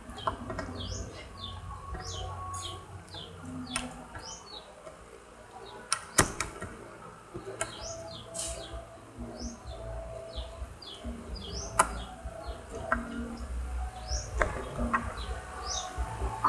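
Small birds chirping, many short quick high chirps repeating throughout, with a few sharp clicks in between.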